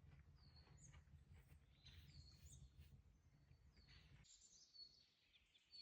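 Near-silent forest ambience: a few faint, short bird chirps over a low rumble that stops about four seconds in.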